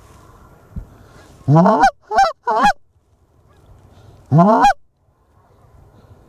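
Canada goose calling, blown loud and close on a hunter's goose call: a drawn honk rising in pitch, two quick clucks, then another rising honk a couple of seconds later.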